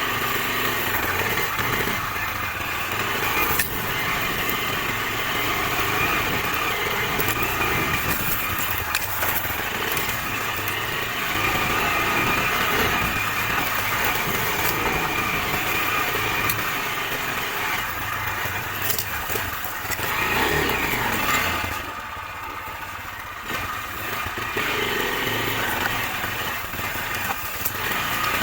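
Chinese Racer Panther motorcycle's engine running as it is ridden along, briefly quieter about three quarters of the way through, then pulling again.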